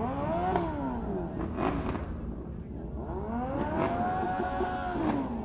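Motorcycle engine revved twice, the pitch climbing and falling back each time, the second rev longer than the first, with a few short sharp cracks.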